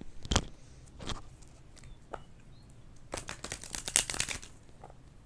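Tarot cards being handled and shuffled: a couple of single taps, then a quick run of card flicks near the middle.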